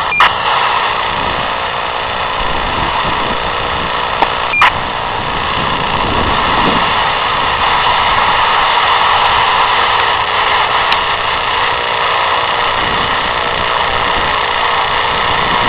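Air-traffic-control radio hissing steadily on an open channel between transmissions. Short clicks come about once at the start, again near 5 seconds and near 11 seconds, some with a brief beep, as transmitters key on and off.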